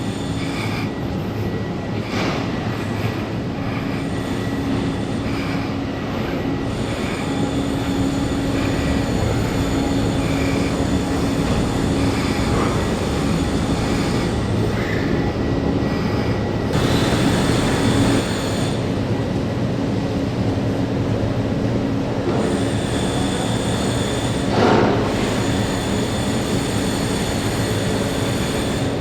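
Train running in the station: a steady rumble with several steady high whining tones. There are short knocks about two seconds in and near the end.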